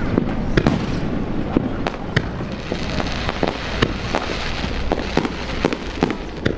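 Aerial fireworks bursting one after another in an irregular string of sharp cracks and booms. A few seconds in, a crackling hiss swells up under them.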